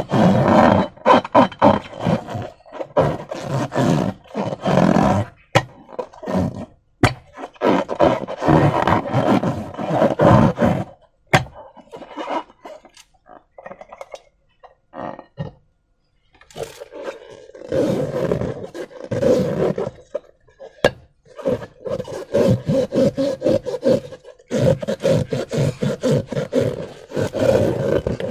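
Slime being squished and worked by hand, a run of wet squelching with many sharp sticky clicks and crackles. It comes in bursts, with a quieter stretch around the middle holding only a few clicks.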